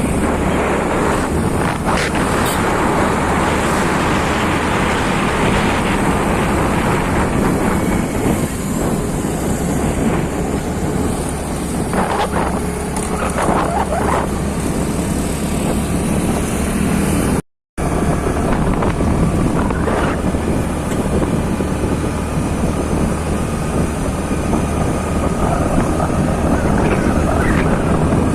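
Motorcycle riding along on the road: a steady engine drone mixed with wind rushing over the microphone. The sound drops out completely for a moment about two-thirds of the way through.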